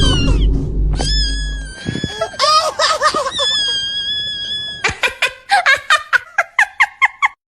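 Meme sound clips laid over one another: a heavy bass layer that stops about two seconds in, then long, high, wavering wails. Near the end comes a quick run of short pitched notes, about five a second, that cuts off suddenly.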